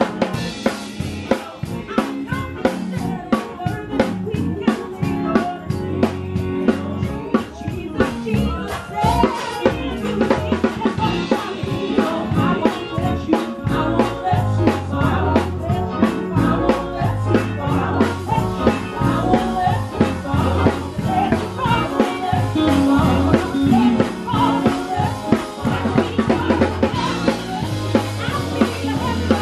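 A live quartet playing: a drum kit keeps a steady beat of bass drum and rim clicks, under a bass guitar line and a lead melody.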